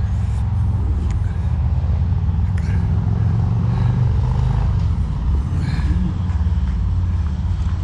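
A car engine idling, a steady low rumble with an even firing pulse.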